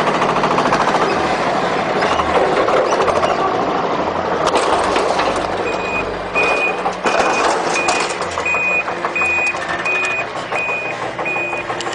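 Heavy truck running loudly. About halfway through, a reversing alarm starts beeping steadily at about two beeps a second over the engine.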